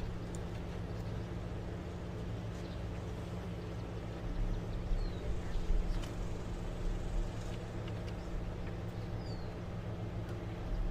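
Steady low engine hum with a few faint bird chirps over it; a low rumble swells up in the middle.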